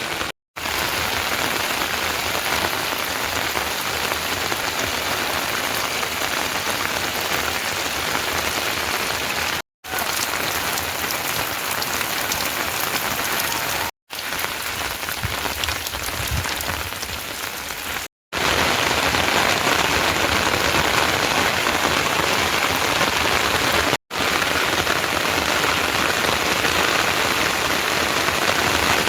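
Steady rain falling, an even hiss broken five times by a short silent gap and a little heavier over the last third.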